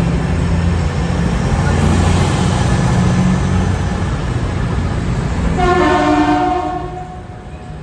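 A train's engine runs with a steady low hum. About five and a half seconds in, the train's horn sounds one short blast of just over a second.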